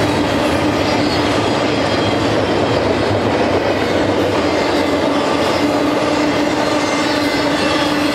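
Cars of a BNSF intermodal freight train rolling past: a loud, steady rumble of wheels on rail with a constant droning tone held underneath.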